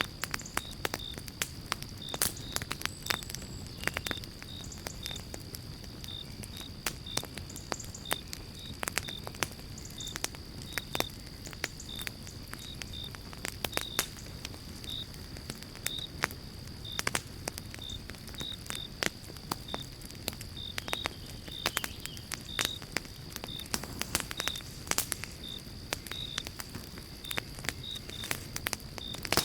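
Pine-log campfire crackling, with frequent sharp irregular pops over a low steady rush of the fire. A cricket chirps steadily behind it, about twice a second.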